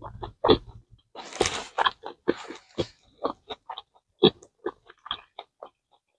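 Close-miked chewing: wet, irregular mouth clicks and smacks of someone eating a mouthful of food, with a longer hissy noise about a second in; it stops shortly before the end.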